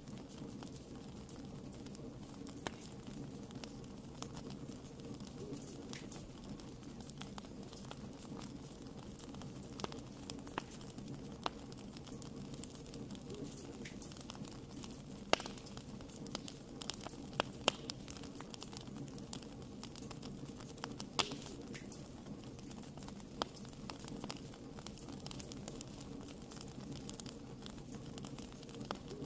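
Wood fire burning in a fireplace: a steady low rush of flames with scattered sharp crackles and pops at irregular intervals, a few louder pops around the middle.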